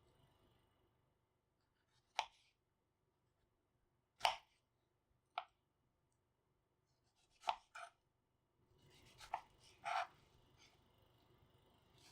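A few light, sharp knocks and clicks at uneven intervals, about seven in all, with near silence between them.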